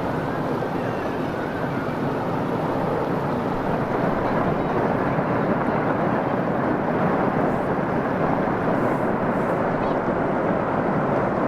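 Steady rushing noise of a river in spate carrying tumbling boulders, an even wash with no distinct impacts.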